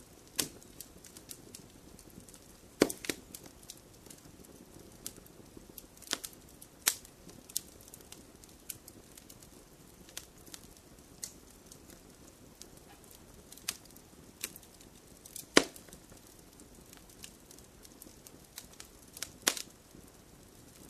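Wood fire crackling: irregular sharp pops and snaps over a soft steady hiss, with a few louder pops standing out, the loudest about three-quarters of the way through.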